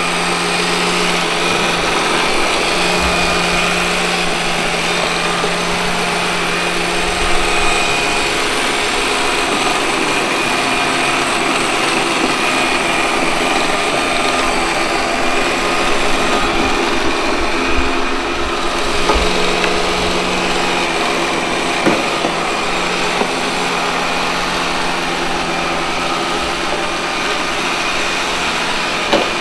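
Robot vacuum cleaner running, a steady whir of its motor and brushes, with a few short knocks at about seven, twenty-two and twenty-nine seconds in.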